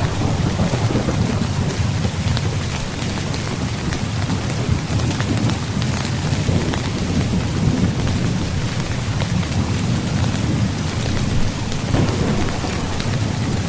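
Steady heavy rain drumming on a tent's fabric, many separate drop ticks over a continuous low rumble.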